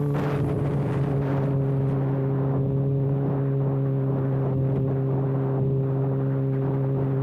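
Kawasaki ZX6R inline-four engine running at steady revs with its exhaust canister removed, giving an unmuffled, even drone that holds one pitch throughout.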